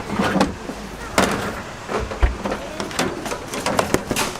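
Irregular knocks and clattering, a dozen or so sharp hits over a few seconds, with bits of voice between them.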